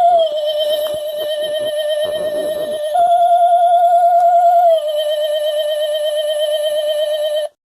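Battery-operated light-up witch decoration's sound chip playing its eerie, theremin-like wavering tone. It steps down in pitch just after the start, back up about three seconds in, down again near five seconds, and cuts off suddenly near the end.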